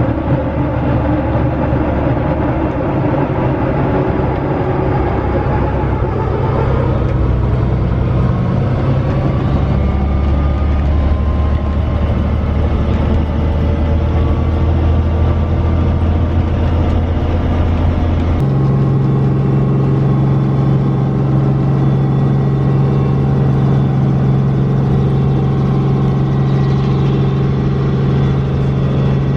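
Helicopter engine and rotor running up after start-up, a loud steady drone whose pitch climbs about a quarter of the way in and steps up again a little past halfway.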